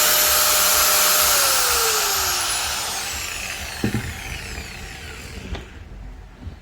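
Makita grinder motor running at full speed, then switched off and spinning down, its whine falling in pitch and fading over several seconds. A brief knock comes about four seconds in.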